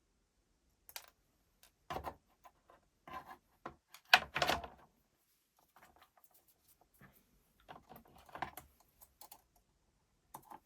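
Irregular clicks and short clattering bursts of small hard parts being handled, loudest in two clusters around two and four seconds in and another near eight seconds.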